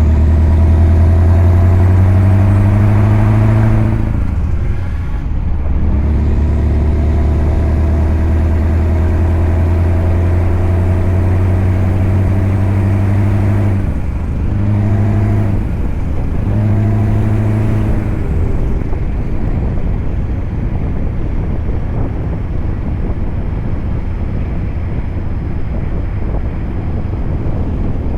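Scania V8 truck engine pulling with a steady drone that breaks off about four seconds in, then resumes. Around the middle the throttle comes on and off in a few short bursts, and the last third is a steady rushing noise with no clear engine note.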